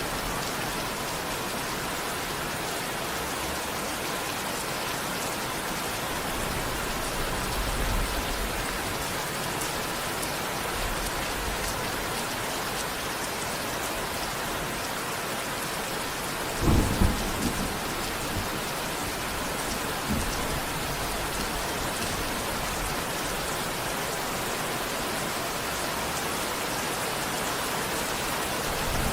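Steady rain falling, an even hiss throughout, with a short low rumble of thunder a little past halfway and a fainter low rumble about three seconds later.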